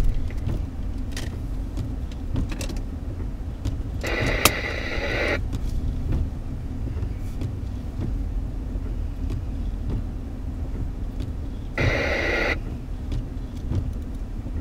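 Steady low rumble of a car moving slowly through deep snow, heard from inside the cabin. Twice, about four seconds in and again near twelve seconds, a scanner radio gives a short burst of static hiss.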